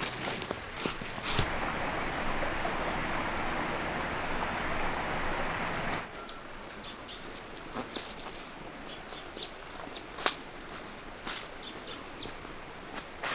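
Insects buzzing steadily at a high pitch, with footsteps and scattered clicks on the ground. A dense rustling hiss fills about the first six seconds and stops abruptly.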